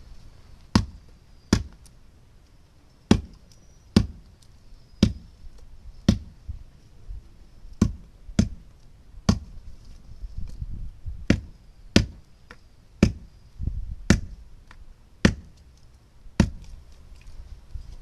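A slow series of sharp chopping strikes, about sixteen in all, roughly one a second with uneven gaps.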